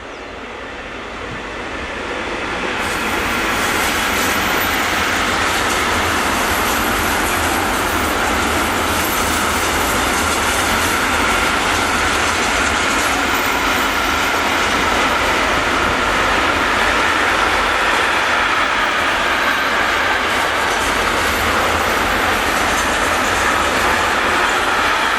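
A train passing close by, growing louder over the first few seconds and then holding steady as its wagons roll past, wheels clattering with a steady squeal as it runs through the curve.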